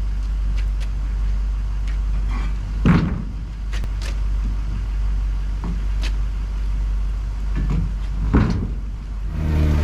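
Vehicle engine idling with a steady low rumble, with a series of knocks and clunks like a door or latches, two of them louder, about 3 and 8.5 seconds in. Near the end the engine gets louder, with a steady hum.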